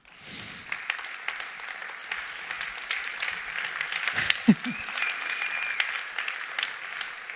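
Audience applauding, starting suddenly and fading out near the end, with a brief voice heard about halfway through.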